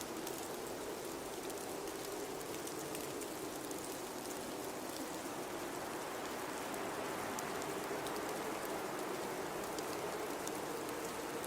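Blizzard wind ambience: a steady rush of wind with a low moan running through it, and faint scattered ticks on top. It swells slightly about two-thirds of the way through.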